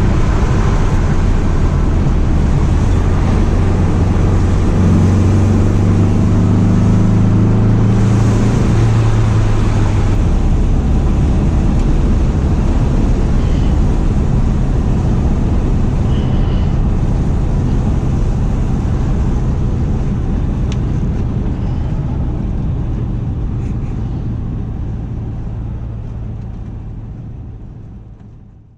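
Porsche 912's rebuilt air-cooled flat-four engine running on the road, its note rising a little for a few seconds and then easing off to a steady cruise. The sound fades out near the end.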